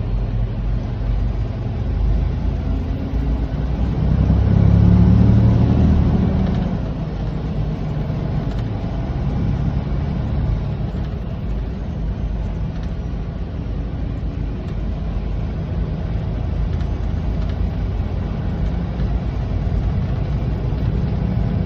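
Semi truck driving: steady engine and road rumble, swelling louder for about two seconds a few seconds in.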